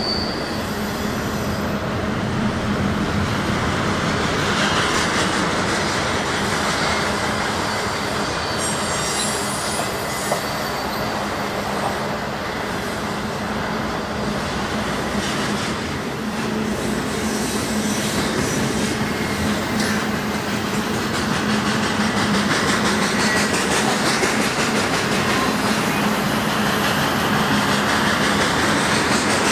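A train's cars rolling past on the rails: a steady rolling noise of steel wheels, with brief high-pitched wheel squeals here and there. It gets a little louder in the last third.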